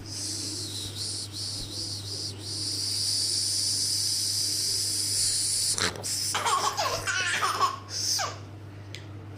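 A steady high hiss for about the first six seconds, then a baby laughing in a string of rising and falling squeals for about two seconds.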